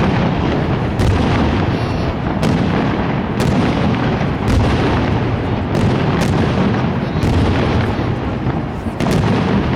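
Aerial fireworks display: a continuous low rumble of overlapping shell bursts with sharp reports about once a second.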